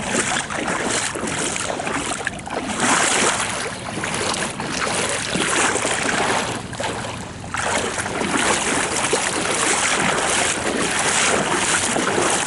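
Wind blowing over the microphone together with the rush of floodwater running in the street, a steady noise that swells and eases.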